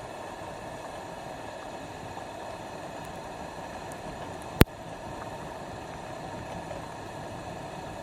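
Scrap-wood campfire burning with a steady hiss, and one sharp, loud pop about halfway through.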